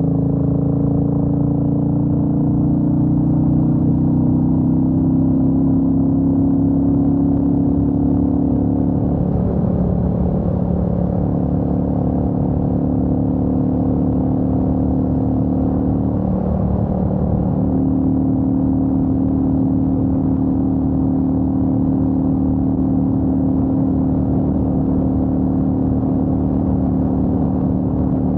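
Royal Enfield Meteor 350's single-cylinder engine running under way on the road, heard from the rider's position. The engine note climbs slightly at first, then dips briefly twice, about ten seconds in and again about seventeen seconds in, before settling steady.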